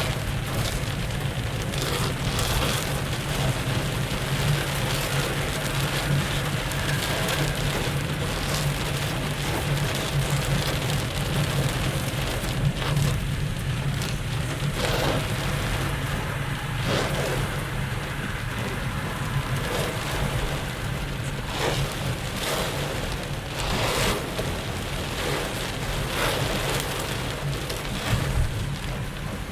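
Heavy rain beating on a moving car, heard from inside the cabin over a steady low road-and-engine rumble, with occasional brief swells in the noise.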